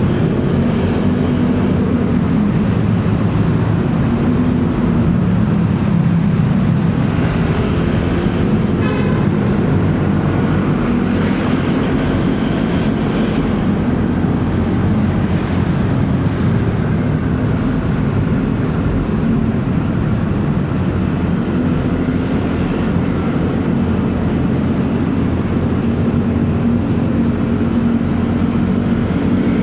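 Motorcycle engine running steadily on the move, with road and wind noise and surrounding traffic. A brief rattle of clicks about nine seconds in.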